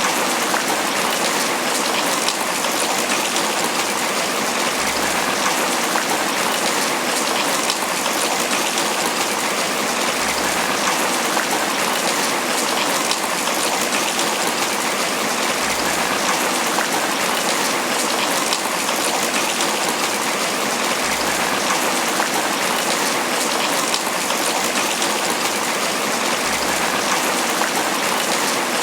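Steady, heavy tropical rain pattering on banana leaves, a dense even hiss of drops that doesn't change.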